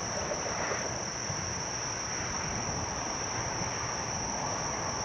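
Steady chorus of night insects, a continuous high-pitched drone.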